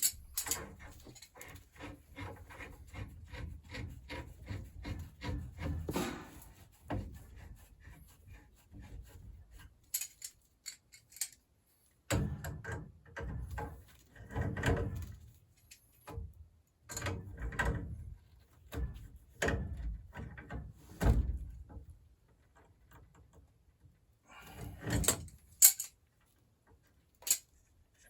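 Irregular handling noises of installation work: rubbing and scraping with short knocks and clicks as parts and tools are moved, coming in clusters with brief quiet gaps.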